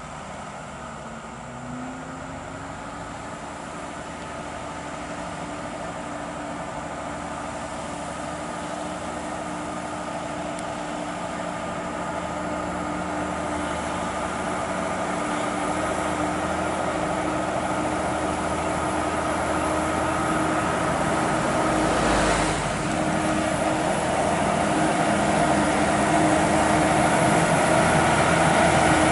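Volvo FH16 550 truck's diesel engine labouring under a very heavy load as the truck crawls uphill at low speed. The note stays steady and grows steadily louder as the truck approaches, with a brief dip in the sound about three quarters of the way through.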